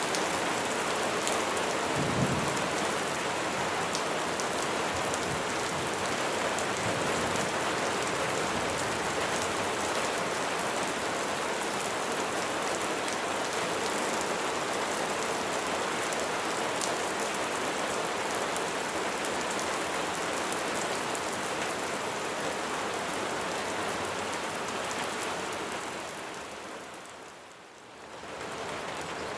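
Steady rain falling on surfaces, a dense even hiss of drops, with one brief low thump about two seconds in. Near the end the rain fades down for a second or two and then comes back up.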